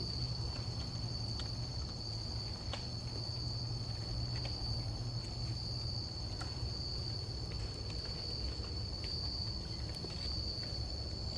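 Night insects chirring in a steady chorus at one high pitch, slightly pulsing, with a low rumble underneath and a few faint ticks.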